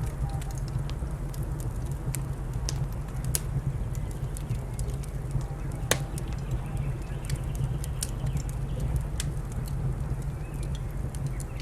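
Wood fire crackling, with scattered sharp pops and one louder pop about six seconds in, over a steady low rumble.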